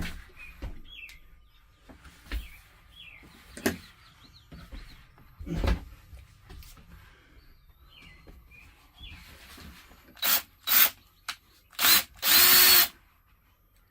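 A few scattered knocks in the first half, then near the end a power drill run in short bursts, the last one held for about a second, during a bunk install in a truck cab.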